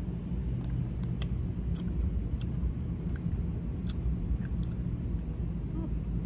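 Gummy candy being chewed: a few faint, scattered mouth clicks and smacks over a steady low hum.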